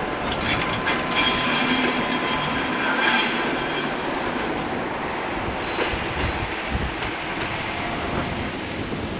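Passenger coaches of a departing train rolling along the track, wheels rumbling on the rails with a high wheel squeal in the first few seconds; the sound slowly fades as the last coach moves away.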